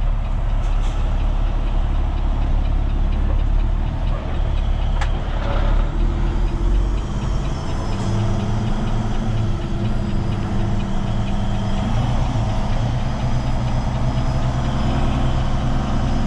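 Heavy truck's diesel engine running while driving slowly, heard from inside the cab. Its low steady note grows stronger about halfway through, and there is one brief click about five seconds in.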